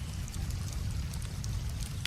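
Wood fire crackling, with scattered small sharp pops, over a steady low rush of running river water.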